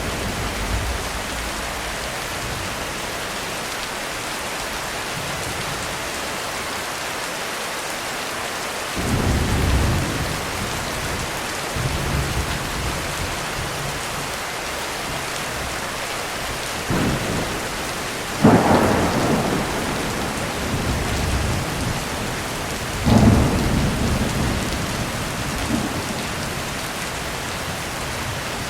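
Heavy rain falling steadily through a thunderstorm, with about five claps of thunder that hit suddenly and rumble off; the loudest strike comes about two-thirds of the way through.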